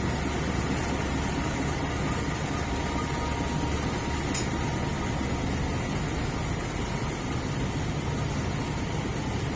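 Steady low rumble of a train at a railway station, with a faint steady tone and a single short click about four seconds in.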